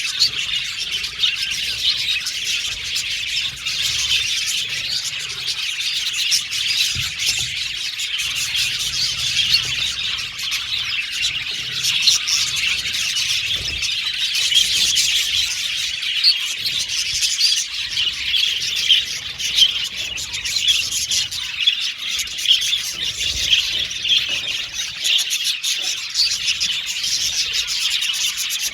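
A flock of budgerigars chirping and chattering continuously, many birds calling over one another in a dense, unbroken chorus.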